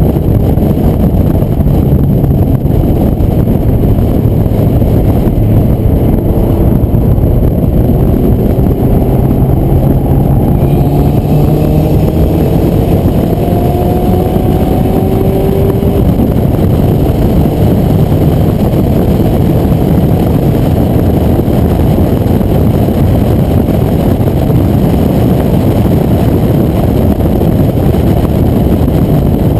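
Porsche 944 Turbo's turbocharged 2.5-litre four-cylinder engine accelerating on track, its note climbing over roughly the first half, heard through loud wind rush from the open driver's window.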